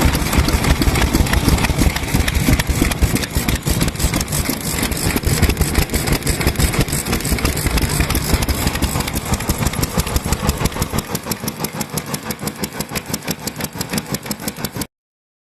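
Vintage stationary kerosene engine running steadily, with rapid, even exhaust beats; the sound cuts off suddenly near the end.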